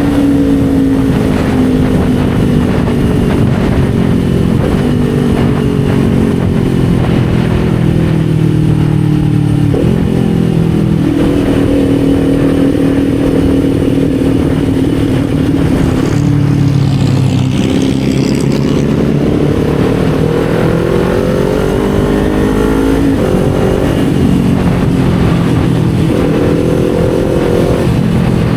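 Kawasaki Z400's parallel-twin engine pulling the bike along at speed. Its pitch holds fairly steady, drops suddenly at gear changes about ten seconds in and near the end, and sags then climbs again through the middle as the rider eases off and accelerates.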